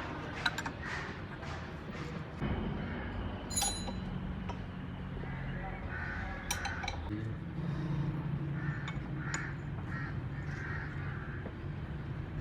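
Metal parts and tools clinking during work on a tractor hydraulic lift cylinder, with a sharp metallic ring about three and a half seconds in, over a steady low hum.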